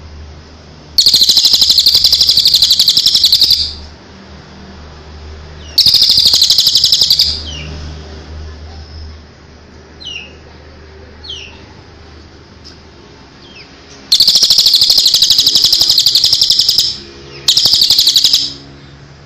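Songbird singing four loud, rapid trills of one to two and a half seconds each, with a few short falling chirps between them. A faint low hum runs underneath.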